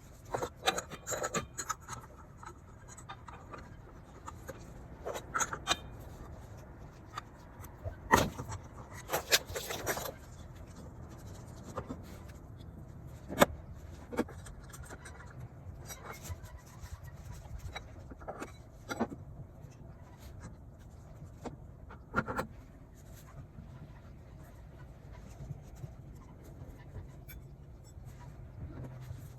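Irregular metallic clinks, knocks and scrapes of hand tools and parts during work on a scooter's belt drive, over a steady low hum.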